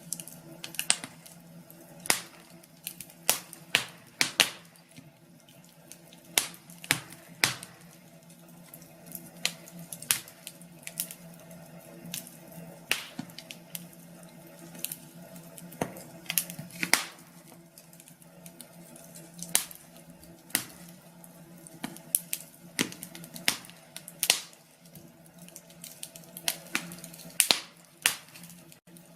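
Wood fire crackling in a fireplace: irregular sharp pops and snaps, some loud and some faint, at uneven intervals over a low steady background.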